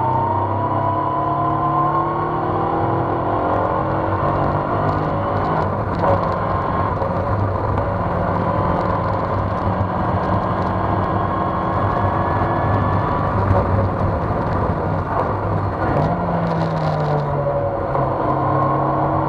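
Open-cockpit Seven-style sports car's engine heard onboard while lapping a circuit, pitch rising and falling with the throttle, with rushing wind noise over the cockpit. The engine note climbs early on, holds, drops about three-quarters of the way through and climbs again near the end.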